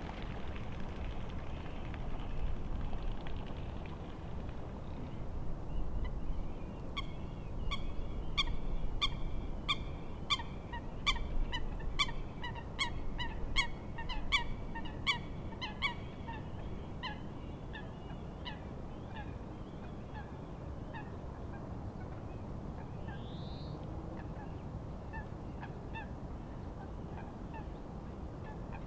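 A bird calling in a long run of short, evenly spaced calls, about three every two seconds, loudest in the middle and then fading away, over a steady low rush of wind and lapping waves.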